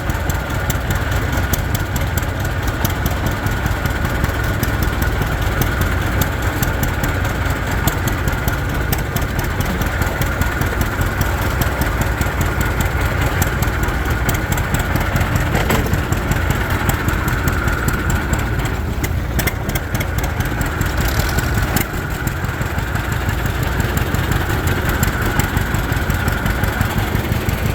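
An old farm tractor's engine running steadily under way, heard from the tractor itself, with an even, rapid pulse of firing strokes.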